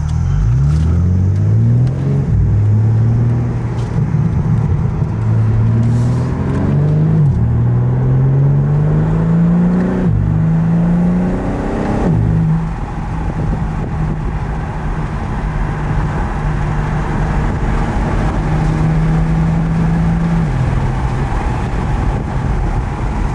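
BMW M3's twin-turbo inline-six on the stock exhaust accelerating hard. The engine note climbs and drops sharply at each of several quick upshifts. From about halfway through it settles into a steady cruise, and it eases lower near the end.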